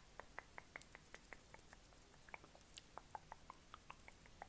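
Light, quick tapping on the camera: a run of sharp clicks about five a second, then slower and uneven.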